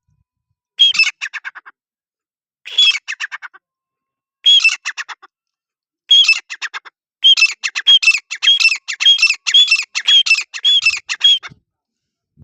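Grey francolin (desi teetar) calling: harsh, rapid rattling phrases, four short bursts about two seconds apart, then a longer run of repeated phrases near the end.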